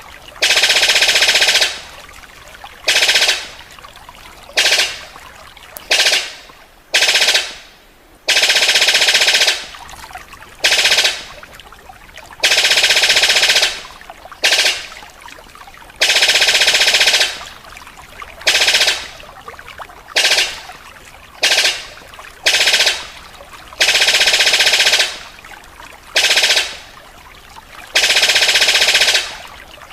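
Recorded bird song: a fast, high trill repeated in bursts of half a second to two seconds, with short gaps between.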